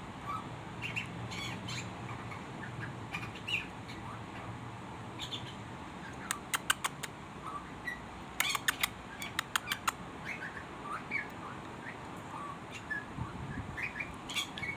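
A small bird calling with short chirps and squawks, scattered through, with two quick runs of sharp rapid notes, about six seconds in and again around eight to ten seconds in.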